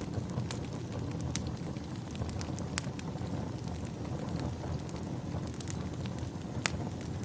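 Wood fire crackling in a fireplace: irregular sharp pops and snaps, a few louder ones, over a steady low rumble of flame and wind.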